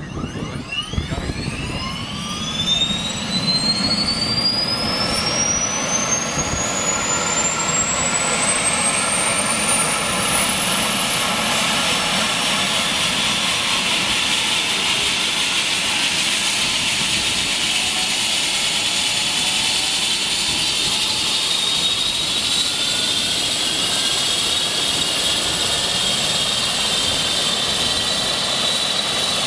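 Eurocopter EC135 T2's twin turboshaft engines spooling up: a whine climbs steeply in pitch over about ten seconds, then holds as a steady high whine over a loud rushing noise.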